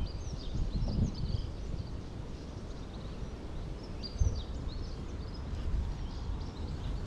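Small birds chirping in short, high calls on and off over a steady low rumble, with one dull thump about four seconds in.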